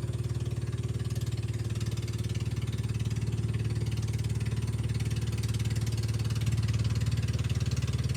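An engine idling steadily with a fast, even pulse, a little louder near the end.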